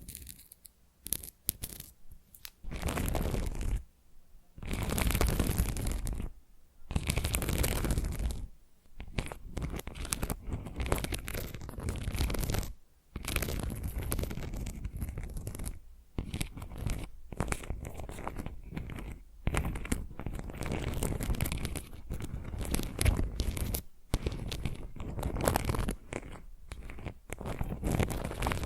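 Fingernails scratching across the back of a tile: repeated strokes of about one to two seconds with short pauses between them, and a few quick short scratches at the start.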